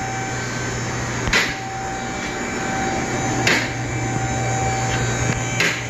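A steady machine hum with a faint whine, broken by three sharp clicks about two seconds apart.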